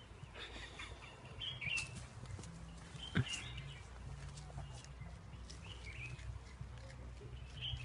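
Small birds chirping now and then, several short high calls, over a steady low rumble, with one sharp click about three seconds in.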